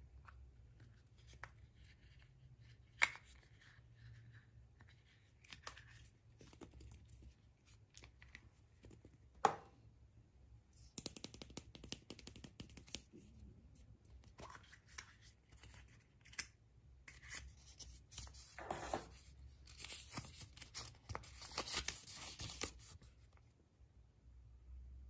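Wrapping being torn open and crinkled by hand, with scattered clicks and taps. There are two longer bouts of tearing, the second and louder one near the end.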